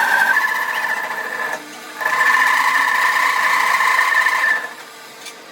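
An electric power tool's motor running with a steady whine, stopping briefly about a second and a half in, then running again and cutting off near the end.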